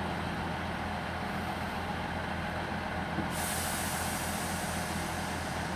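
Class 158 diesel multiple unit idling at the platform with a steady low engine hum. About three seconds in, a loud hiss of air starts suddenly and keeps going: the train's air brakes releasing as it gets ready to depart.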